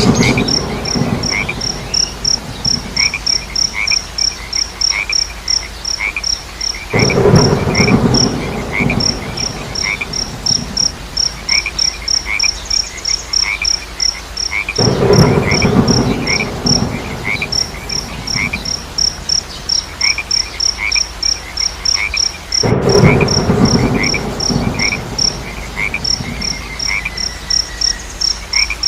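Frogs croaking in loud bursts of about two seconds, roughly every eight seconds. Underneath, a fast, steady, high-pitched insect chirping and a quieter repeated chirp carry on.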